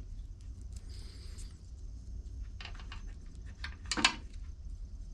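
Light clicks, taps and a brief rustle of small carburetor parts and screws being handled, with a sharper click about four seconds in.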